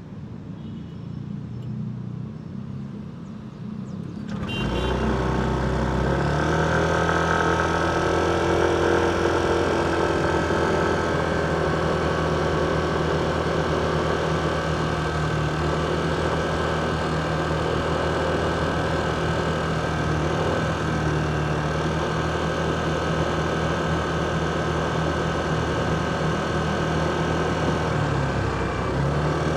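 A vehicle engine in road traffic running at an unchanging pitch, like an idle. It comes in much louder about four and a half seconds in and then holds steady.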